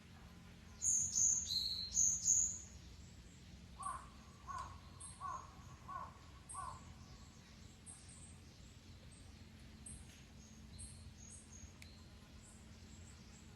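Wild birds calling: loud, high-pitched chirps about a second in, then a run of five lower calls about two-thirds of a second apart, then scattered faint chirps over a steady low background hush.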